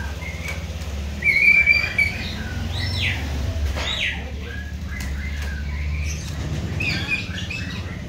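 Hill mynas calling: a loud whistled call about a second and a half in, sharp falling notes a little later, and more short calls near the end, over a low steady hum.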